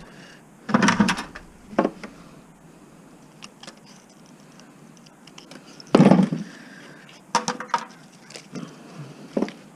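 Scattered knocks and clatters of objects being handled and set down, some with a short ring. The loudest are a knock about a second in and another about six seconds in, with a quick run of lighter clinks just after seven seconds.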